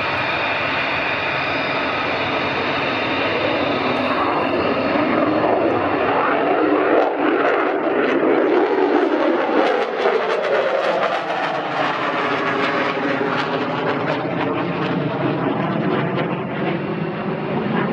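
Fighter jet engine noise running loud and continuous, its tone sweeping as the jet moves past.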